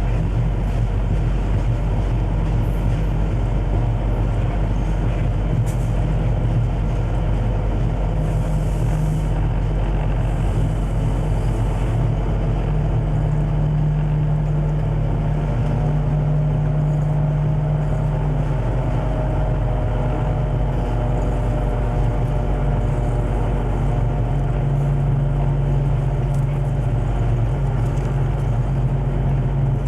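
Conrail diesel-electric locomotive running steadily: a constant low engine drone with a noisy mechanical rumble over it.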